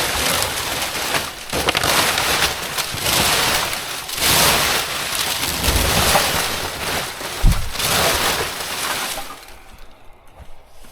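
Rubbish being rummaged through by hand in a waste bin: a continuous loud rustle of bags and packaging being moved about, in uneven surges, easing off about a second before the end.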